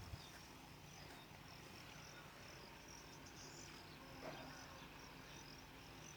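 Near silence with faint high-pitched chirping, and one short, slightly louder chirp about four seconds in.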